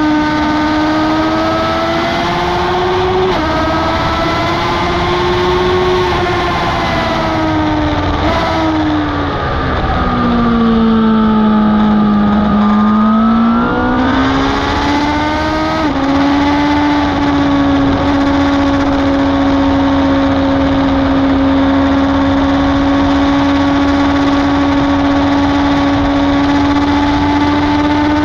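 Superbike engine at high revs heard on board at speed, with loud wind rush. The engine note wavers, drops steeply about ten seconds in as the bike slows, climbs back a few seconds later, then holds a steady high pitch for the rest.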